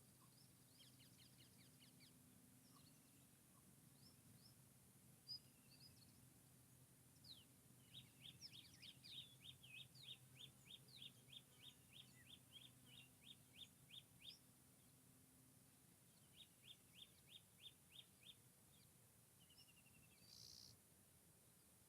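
Faint forest birdsong: scattered high chirps, then a bird repeating short down-slurred notes about three a second for some six seconds, starting about eight seconds in. A shorter run of the same notes comes a couple of seconds later. A faint steady low hum sits under it.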